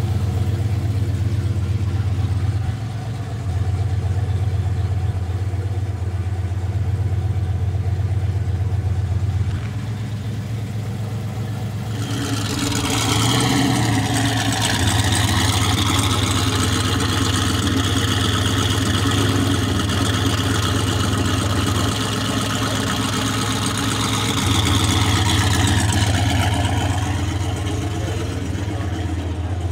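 Turbocharged Cadillac CTS-V drag car's V8 idling with an uneven, shifting beat. About twelve seconds in, a loud high whine and hiss joins it, dipping in pitch, then holding, then rising again before it stops near the end.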